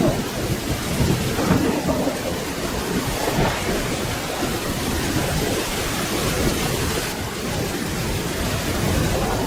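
Steady rain falling, with a continuous low rumble of thunder running under it.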